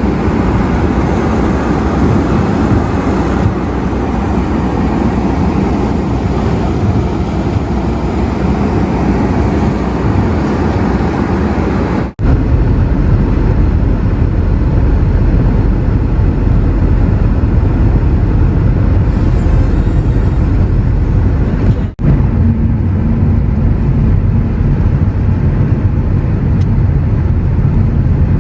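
Steady low rumble of a car driving in a snowstorm: road and wind noise, broken by two brief dropouts where the recording is cut, about twelve and twenty-two seconds in.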